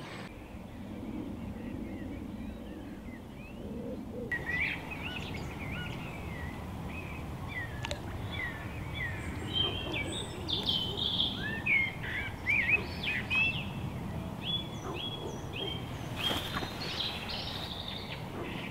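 Songbirds singing, short chirping phrases that start about four seconds in and grow busier later, over a steady low outdoor background noise.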